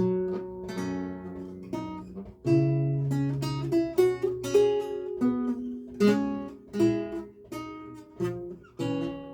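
Lute playing a recercar: a run of plucked single notes and chords with several lines moving together, each note ringing and fading.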